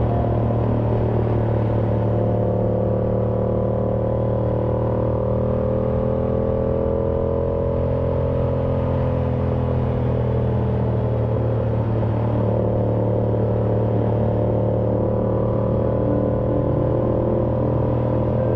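Yamaha YZF-R7's parallel-twin engine running steadily through an SC-Project exhaust, its note holding close to one pitch with only slight rises and falls.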